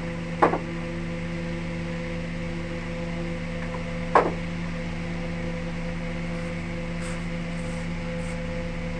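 Electric wood lathe running with a steady hum, and two sharp knocks, one about half a second in and one about four seconds in.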